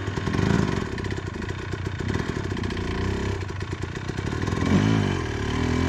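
Two-stroke dirt bike engines running, with the throttle blipped up and down in quick revs near the end as a rider works the bike on a slippery climb.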